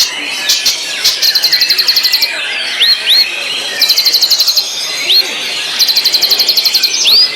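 White-rumped shama (murai batu) singing: three bursts of fast, high repeated notes, each about a second long, broken by short rising whistles.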